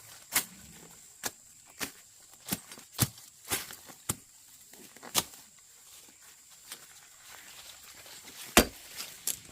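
Irregular series of sharp knocks or snaps, roughly one every half second to a second, with the loudest one near the end.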